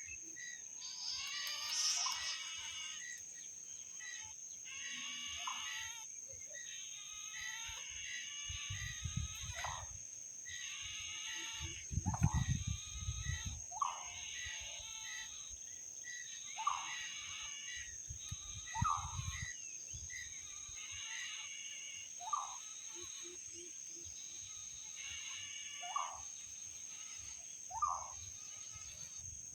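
Outdoor ambience of insects and birds: a steady high insect whine, trilling insect calls repeating every second or two, and short falling calls about every two seconds. Low rumbles come a few times around the middle.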